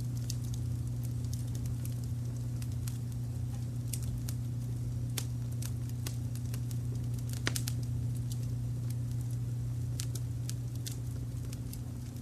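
Wood fire crackling with scattered sharp pops, one louder pop about halfway through, over a steady low rumble of brown noise.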